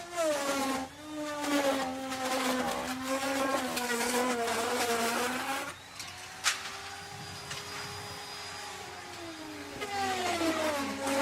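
Electric wood router running, its motor pitch sagging and a rasping cutting noise rising as the bit bites into the wood. From about six seconds in it runs lighter and higher with a sharp click, then bogs down into another cut near the end.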